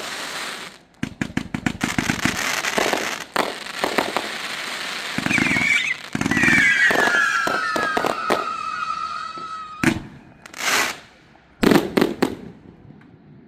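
Fireworks going off: rapid crackling and popping bursts, then a whistling shell that falls in pitch for several seconds midway, followed by a few loud bangs near the end.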